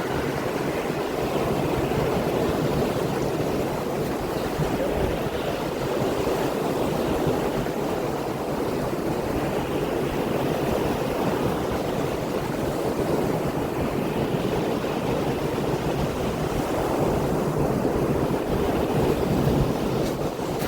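Baltic Sea surf washing steadily onto the shore in slow swells, with some wind on the microphone.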